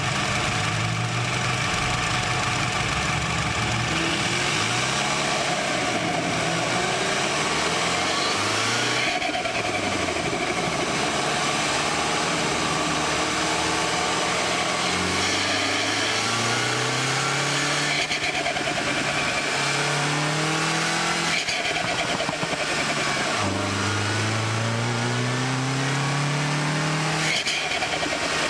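MINI Cooper S engine accelerating hard through the gears, its pitch climbing and dropping back at each upshift, over a steady rush of wind and tyre noise.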